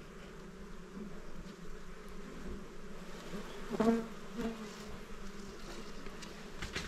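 A swarm of small honeybees buzzing in a steady drone around their disturbed hive, with one swelling louder briefly about four seconds in.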